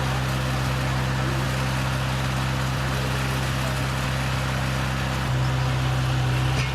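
Engine of heavy demolition machinery running steadily, its hum growing a little louder about five seconds in.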